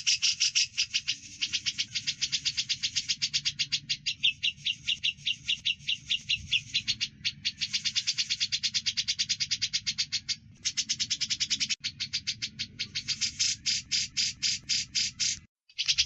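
Songbird chirping in a fast, unbroken run of short high notes, about eight to ten a second, over a faint low hum, with a few brief pauses, the longest near the end.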